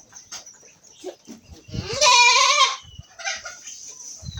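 A goat bleating once, a loud wavering call of about a second, roughly two seconds in.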